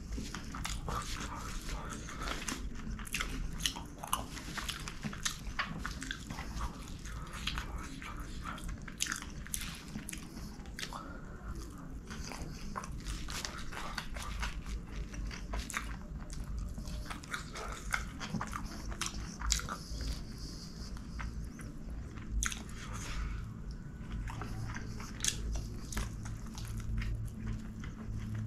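Close-miked chewing and mouth smacks from eating chicken kottu, a chopped-roti dish, by hand, with frequent small wet clicks. Fingers scooping the food off plastic wrapping add light crinkling.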